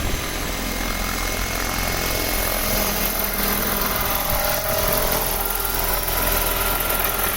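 Rotors of a crop-spraying helicopter running steadily, a continuous whirring with a low hum under it.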